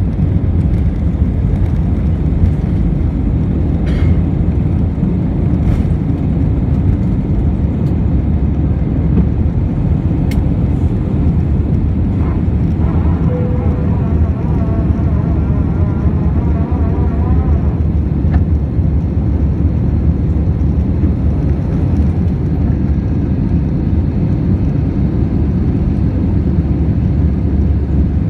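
Airbus A320 jet engines running at high power during takeoff and climb, heard from inside the cabin as a loud, steady low rumble.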